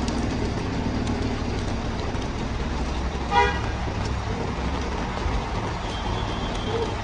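A single short car horn toot about halfway through, the loudest thing heard. Behind it is a steady wash of heavy rain and city traffic.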